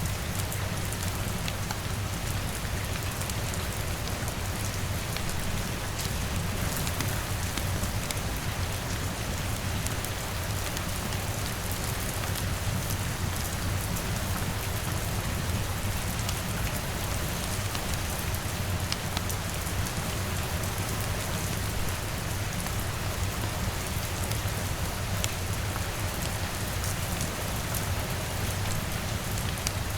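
Steady rain, with a low even rumble beneath it and many small sharp ticks scattered through it.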